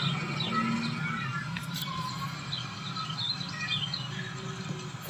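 Birds chirping repeatedly in short twittering calls over a low steady hum.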